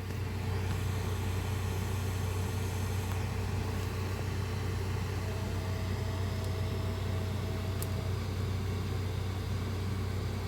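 3D printer running idle, its fans and power supply giving a steady low hum. A faint higher whine comes and goes for a few seconds in the middle, with one small click.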